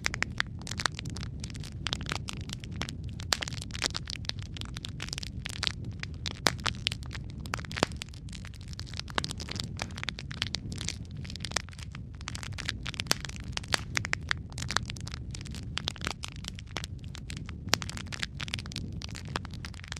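Wood fire crackling in a fireplace: a steady low rumble of flames under many sharp, irregular pops and snaps.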